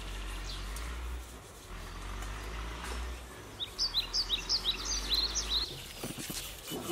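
A small bird chirping, a quick run of short high notes about halfway in, over a low steady rumble that cuts off abruptly. A few light clicks follow near the end.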